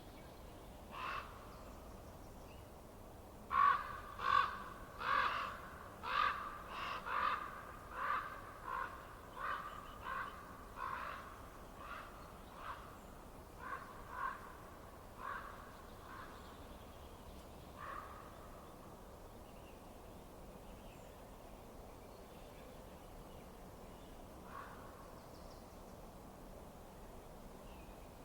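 A crow cawing: a long run of short harsh calls, one to two a second, loudest at the start and fading over about fifteen seconds, with a last faint caw near the end, over a faint steady hiss.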